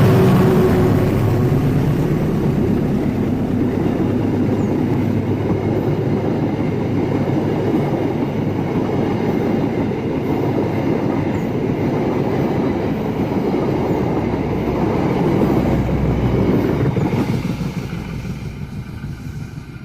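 Diesel-hauled passenger train passing close by. The locomotive's engine goes by right at the start, then the carriages roll past with a steady rumble of wheels on rails. The rumble fades away over the last few seconds.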